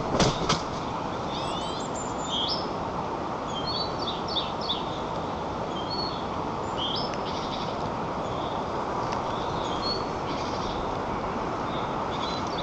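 Small songbirds chirping and trilling in the surrounding forest over a steady rushing hiss, recorded from a treetop nest camera. Two sharp knocks sound just after the start, the loudest sounds.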